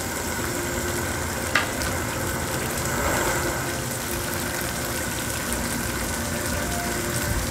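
Chicken thighs and tomato frying in a pan over a high-heat gas burner: a steady sizzle with a low rumble underneath. A single sharp knock comes about one and a half seconds in.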